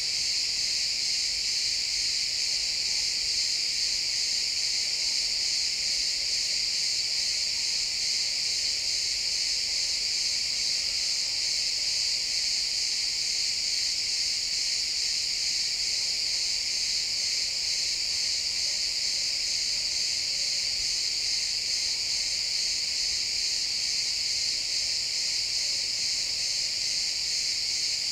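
Chorus of crickets chirping, a dense, steady high-pitched trill from many insects at once that never lets up.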